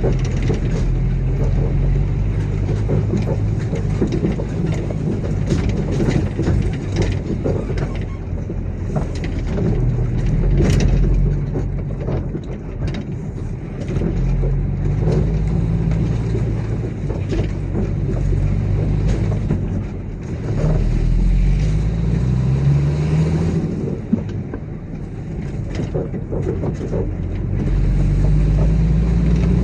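Heavy diesel engine of a construction machine or truck running, its pitch rising and falling again and again as it is revved, with scattered clanks and knocks over it.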